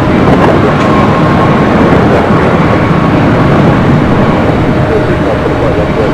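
A train running by: loud, steady rail noise with a few faint steady tones over it.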